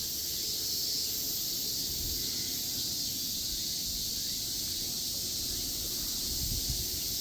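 Cicadas in a dense, steady chorus, a continuous high-pitched shrill hiss, with a low rumble underneath.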